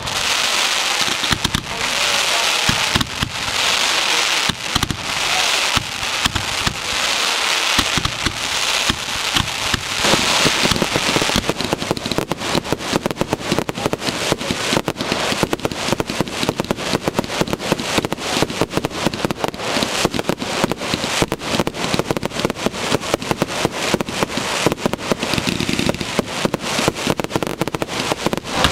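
Fireworks crackling in dense, rapid clusters of small pops, with a hiss over the first ten seconds or so, then unbroken fast crackling.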